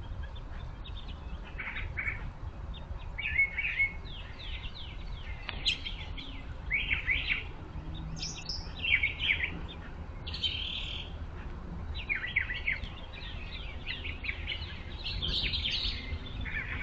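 Small birds chirping and calling in quick runs of short notes, several overlapping, over a steady low background rumble.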